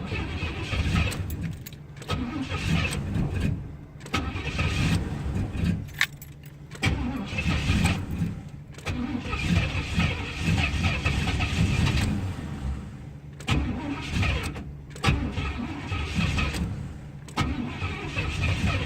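Box Chevy Caprice's starter cranking the cold engine in several long tries with short pauses between, the engine not catching: a below-freezing cold start after days of sitting, without the gas pedal pumped.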